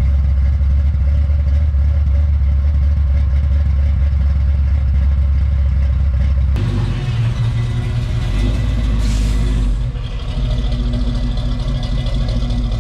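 Classic Camaro engine running steadily, heard at the exhaust from behind the car, with a deep even drone. About six and a half seconds in it switches abruptly to a second car, a 1973 Camaro's 350 small-block V8 running with a higher, choppier exhaust note, and a brief hiss is heard about nine seconds in.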